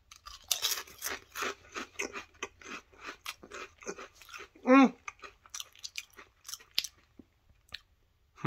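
Crunchy ridged potato chip being bitten and chewed, a quick run of crisp crunches that thins out toward the end. About halfway through there is one short hum from the eater, falling in pitch.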